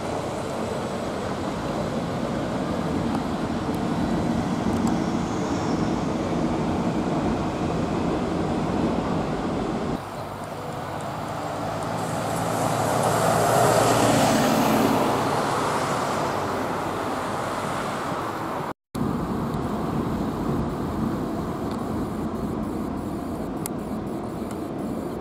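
Steady road traffic noise, with one vehicle passing that swells and fades about twelve to sixteen seconds in. The sound changes abruptly about ten seconds in and drops out for a moment near nineteen seconds.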